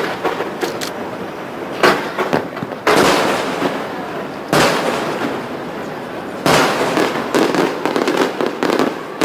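Aerial fireworks bursting over the water: several sharp booms, each trailing off into a crackling hiss, with rapid crackling bursts thickening near the end.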